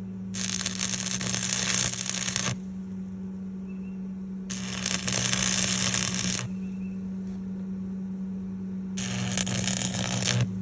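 Electric arc welding on a steel disc harrow: the arc crackles in three runs of about two seconds each, with short pauses between, over a steady low hum.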